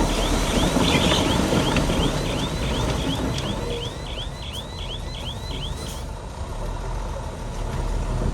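Heavy diesel construction machine running, with its reversing alarm sounding a rapid run of high chirps about two to three a second that stop about six seconds in.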